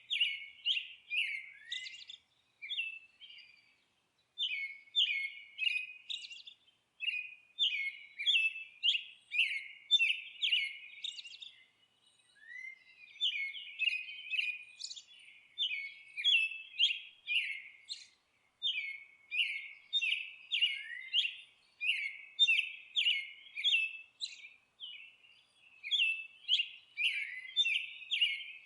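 Bird song: a songbird chirping in repeated phrases of short, quick, downward-sweeping notes, about two a second, with brief pauses of about a second between phrases.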